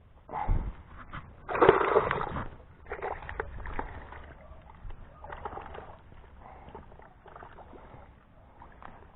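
Water sloshing and splashing in irregular bursts, loudest about two seconds in, then weaker splashes.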